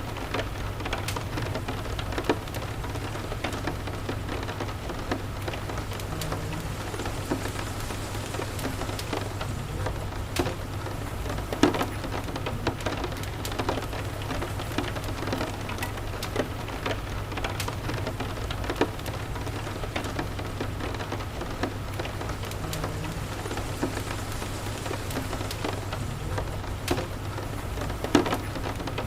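Steady rain with a crackling wood fire, whose sharp pops and snaps come throughout. The two loudest pops fall about a third of the way in and near the end, over a steady low rumble.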